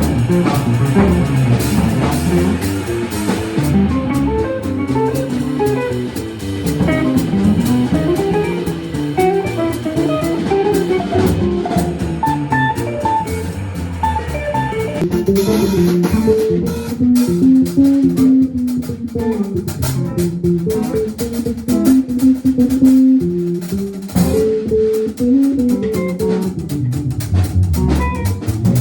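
Jazz quartet playing live: guitar lines over bass and drum kit.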